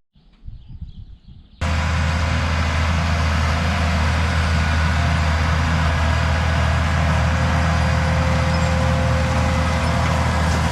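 Tractor engine running steadily at a constant speed, with a low even drone. It cuts in abruptly about a second and a half in, after a brief quieter, muffled stretch.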